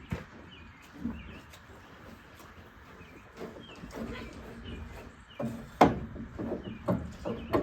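Chickens clucking and chirping softly, with rustling and a few sharp knocks in the last two seconds, the loudest about six seconds in.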